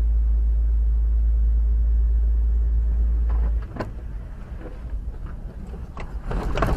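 Low, steady rumble of a car on the move, as picked up by a dashcam. It drops away sharply about three and a half seconds in, leaving a quieter background with a few scattered clicks and knocks.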